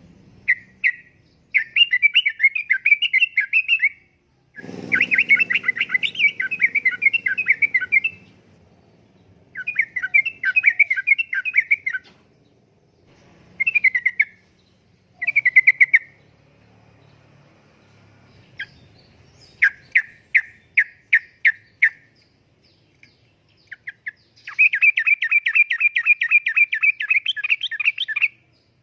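Yellow-vented bulbul (trucukan) singing: phrases of fast chirping notes, each two to four seconds long, repeated with short gaps. Partway through comes a run of separate notes at about four a second.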